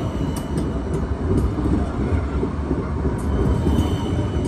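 A train running on the track: a steady, loud rumble with a faint high whine and a few sharp clicks.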